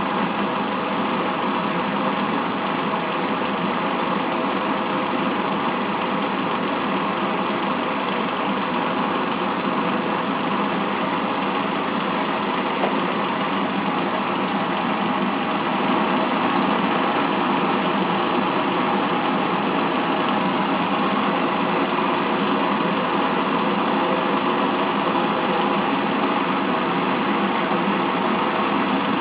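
Small gamma-type Stirling engine running steadily, a continuous mechanical whirr that grows slightly louder about halfway through.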